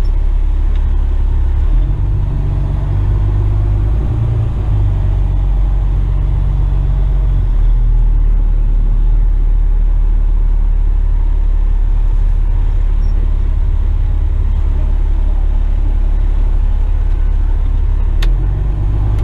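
Western Star tipper truck's diesel engine running, heard from inside the cab: a steady low rumble whose pitch steps up and down a few times, about two and four seconds in and again near the end.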